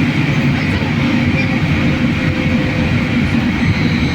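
Cabin noise of a BKM-43300D trolleybus under way: a loud, steady rumble of the running gear and road, with a faint high whine coming in near the end.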